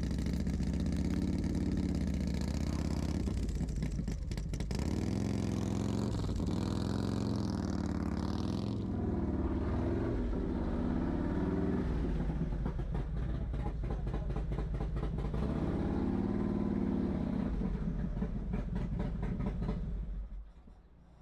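Harley-Davidson V-twin motorcycle engine running at low speed, its pitch rising and falling with small throttle openings as the bike is ridden up a loading ramp. The engine is switched off near the end and cuts out suddenly.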